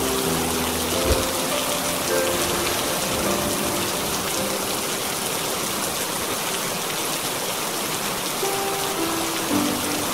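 Steady heavy rain, an even hiss of falling water, with soft sustained music notes drifting in and out over it.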